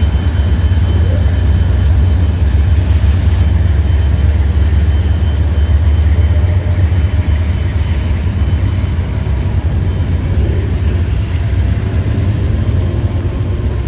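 Norfolk Southern freight train rolling past with a steady, heavy low rumble, rain hissing over it. A brief hiss about three seconds in.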